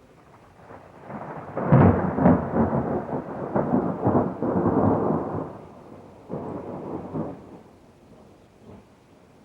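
Thunder: a rolling rumble that breaks in with sharp cracks about two seconds in and dies away after about five seconds, followed by a shorter second roll.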